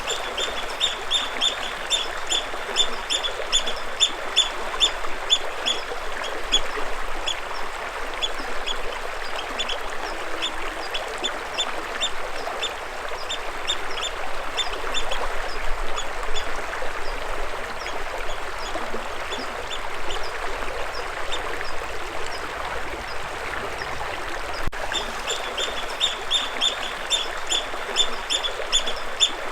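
Steady rush of moving water, with a bird calling over it in quick runs of short, high, repeated chirps, busiest at the start and again near the end.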